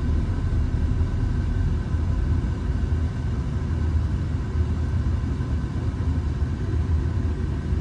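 Big helicopter lifting a load on a long rope: a steady low rotor rumble with a faint steady whine above it.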